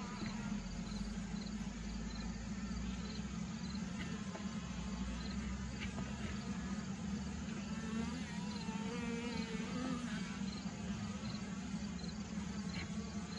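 Honeybees buzzing around an opened hive: a steady, continuous hum of many bees in flight.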